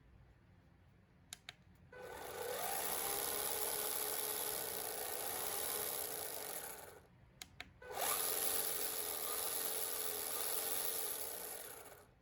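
Electric motor and drivetrain of an MN68 1/16-scale RC drift car running under throttle, twice for about five seconds each. Each run opens with a rising whine that then holds steady, and a few light clicks come just before each run.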